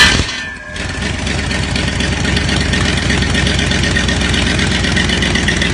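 Ford 59AB flathead V-8 on an engine stand firing up in a loud burst at the very start, dipping briefly, then settling into a steady, loping idle. The lope comes from a cam the owners call a little wild.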